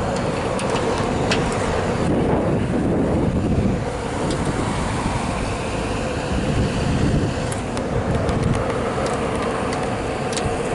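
Road traffic going by: a steady hum that swells and fades as vehicles pass, with a few light clicks.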